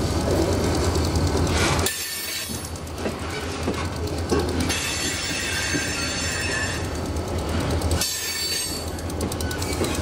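Freight train rolling on steel rails, its wheels squealing in thin high tones, with scattered clicks. A low rumble drops away about two seconds in and comes back near the end.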